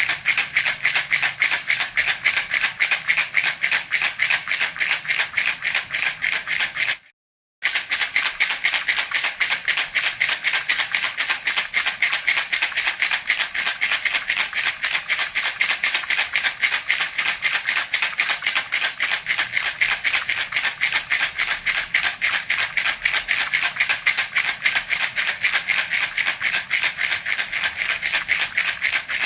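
Baby rattle (jhunjhuna) shaken quickly and evenly, a steady stream of rattling beads, with a momentary dropout to silence about seven seconds in.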